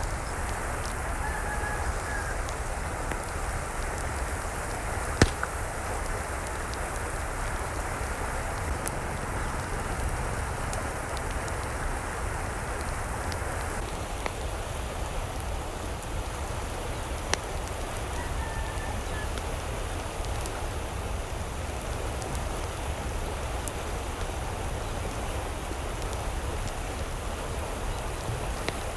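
Steady hiss of water, with a single sharp tick about five seconds in. The hiss changes in character about halfway through, and a couple of faint short calls sound over it.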